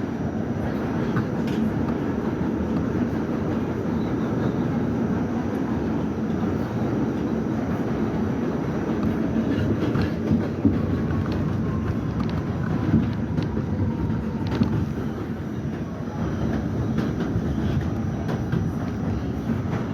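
R68 subway train running on the rails with a steady rumble. A few sharp clicks from the wheels come about halfway through, and a faint whine drifts through for a few seconds.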